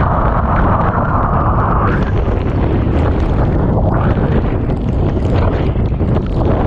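Typhoon eyewall wind and driving rain: a loud, steady rumble of wind buffeting the microphone under a hiss that is strongest for the first two seconds, then eases.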